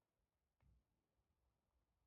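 Near silence, with one faint low thump about two-thirds of a second in.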